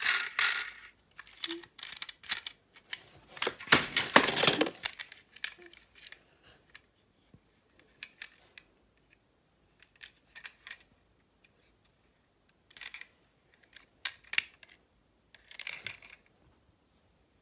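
Intermittent sharp clicks and short scraping rustles from small objects being handled, with the loudest and longest scrape about four seconds in.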